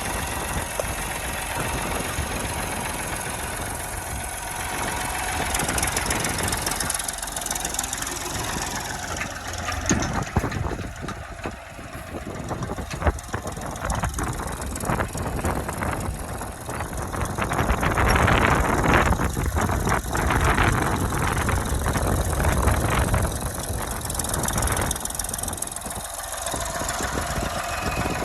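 Massey Ferguson tractor engine running, getting louder for several seconds past the middle before easing back.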